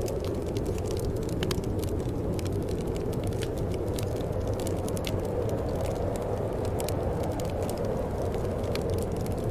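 Wood fire crackling, with frequent irregular sharp pops and snaps over a steady low rush of burning flames.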